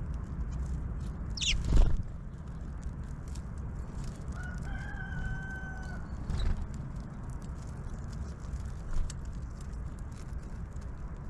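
A rooster crows once, a single drawn-out call of under two seconds that begins about four seconds in, over a steady low rumble. Just before two seconds in there is a short, loud falling squeak with a knock, and fainter knocks follow later.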